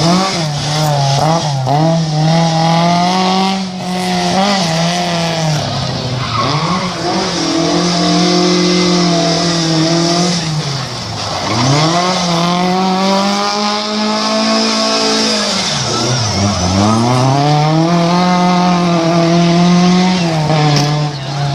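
Rally car engine driven hard, held at high revs. Twice, about eleven seconds in and again near the end, the revs fall steeply as it comes off the throttle and then climb again as it accelerates away.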